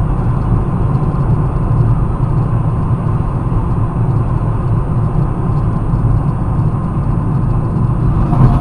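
Steady rumble of a moving car's engine and tyres as heard by an in-car dash cam, with a faint steady high whine.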